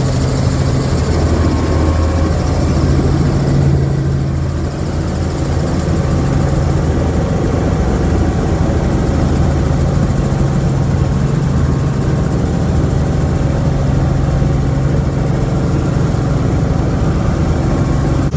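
Helicopter engine and rotors running in a loud, steady drone with a low hum.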